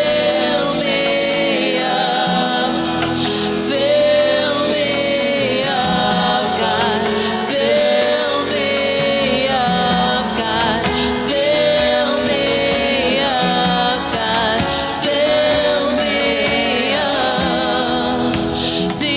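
Gospel worship music: sung melody over instrumental backing, with voices that may include a choir, playing steadily throughout.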